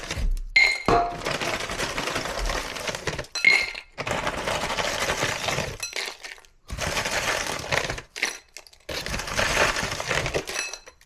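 Frozen vegetables rattling out of a plastic bag into a dish, in several pours a few seconds long with short pauses, and a few pieces clinking against the dish.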